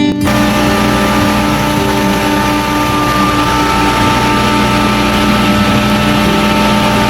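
Loud, steady machine noise with a steady whine running through it, as from a Carrier 30XW water-cooled screw chiller running.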